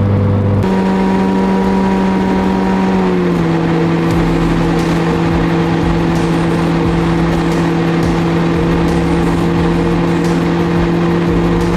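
Vehicle driving, heard from inside the cabin: steady road and engine noise with a steady hum whose pitch steps up just under a second in and drops slightly about three seconds in.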